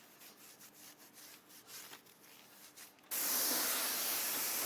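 A stiff wheel brush scrubbing a tire and wheel in faint, quick strokes. About three seconds in, a loud, steady water spray starts abruptly, rinsing the cleaner off the wheel.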